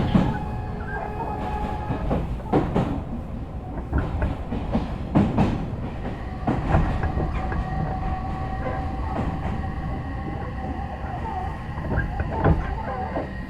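Odakyu 3000 series electric commuter train heard from inside its motor car, running with a steady low rumble and an electric whine from its VVVF inverter drive. Wheels strike rail joints and points in several sharp clunks at uneven intervals as the train nears a station.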